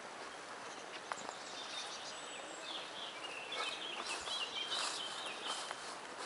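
A songbird singing a rapid, warbling phrase of high notes from about two seconds in, over a steady background hiss.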